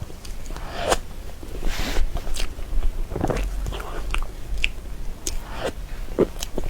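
Close-up eating sounds of soft cream cake: moist chewing with irregular wet mouth clicks and smacks, a few of them louder.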